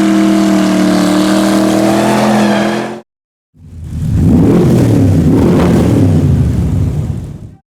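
Loud car engines in two short clips cut together. First a steady, held engine note for about three seconds. Then, after a brief silent break, a rougher rumbling engine that swells and fades as a car revs or drives past.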